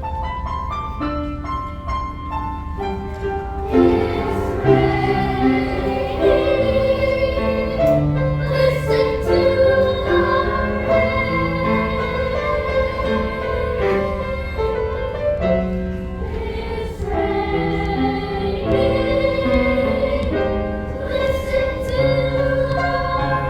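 A fifth-grade children's chorus singing with musical accompaniment; a short run of notes leads in, and the voices enter about four seconds in.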